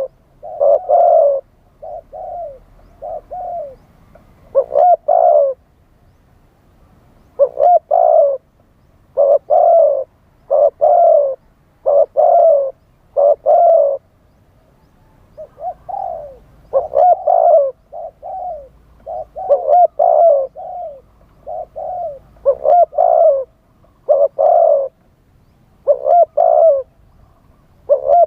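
Spotted dove cooing: phrase after phrase of short, low coo notes, repeated in runs with brief pauses between them.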